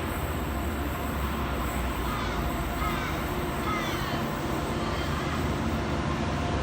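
Freight train passing through the station: a steady rumble of its wheels on the rails.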